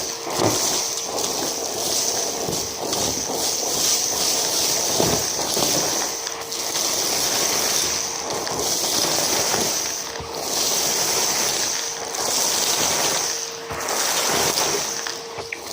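Numatic James vacuum cleaner running, its high motor whine swelling and dipping every second or two as the nozzle is worked back and forth, with a lower hum that comes and goes and scattered crackles of debris being sucked up.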